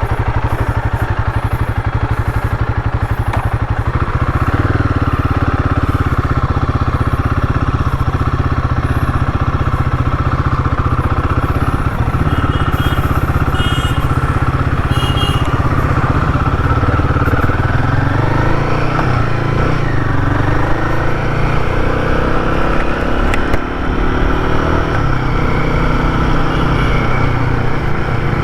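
Royal Enfield Guerrilla 450's single-cylinder engine running hard on a top-speed run. It gets louder about four seconds in, its pitch climbs in sweeps later on, and there is a brief drop in level about three-quarters of the way through.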